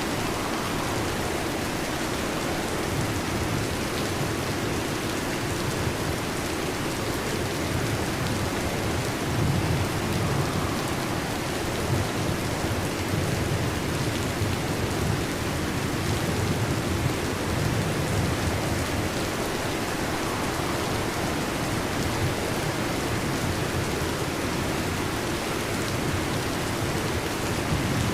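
Steady heavy rain, with low rolling thunder rumbling underneath in swells through the middle of the stretch.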